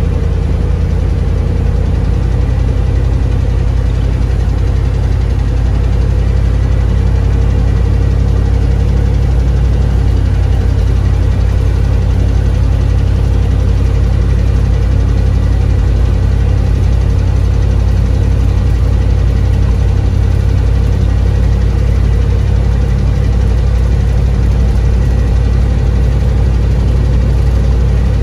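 Vehicle engine and road noise heard from inside the cabin while driving: a steady low drone that holds evenly throughout.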